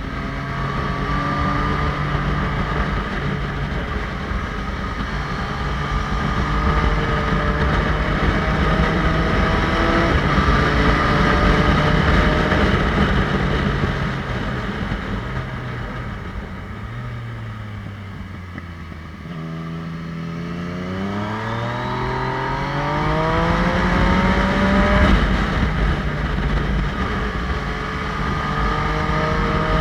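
Motorcycle engine running under way through the gears: the revs fall away through the middle, then it accelerates hard with a long rising pitch before settling at steady revs, over a rush of wind and road noise.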